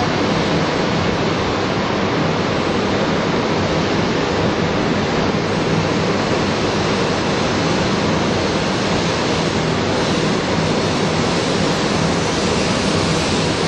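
A 200 series Shinkansen train passing, a steady rushing noise of wheels on rail and moving air.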